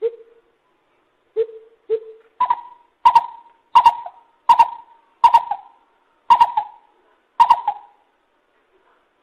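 Lesser coucal calling: three low hoots, then a run of seven louder, higher hoots about two-thirds of a second apart, each starting with a sharp click.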